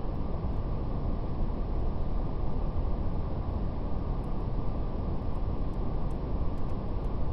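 Steady brown noise, a deep, even rumbling hiss with most of its weight in the bass, and a faint crackle of a fire as scattered soft ticks.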